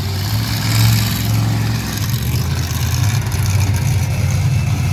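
Big monster truck engine running at a low, steady pitch, with a rough, uneven pulse beneath the tone and a slight dip about two seconds in.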